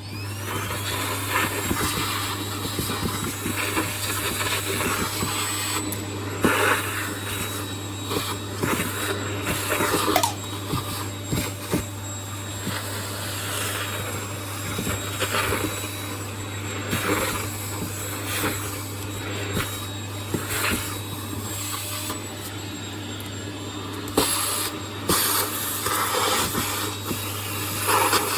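Vacuum cleaner switched on, its motor whine rising, then running steadily. The nozzle scrapes and knocks against a surface now and then.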